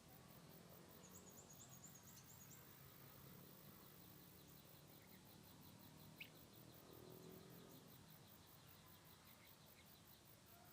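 Near silence with faint insects chirring in even pulses and a short run of high chirps about a second in. A single small click comes about six seconds in.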